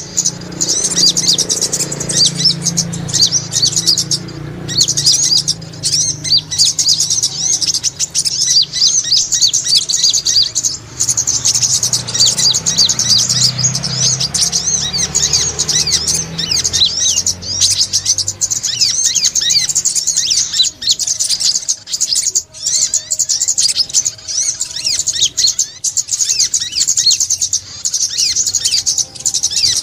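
Brown-throated sunbird chirping in a fast, continuous high twitter of many quick notes, with a low rumble underneath in the first half.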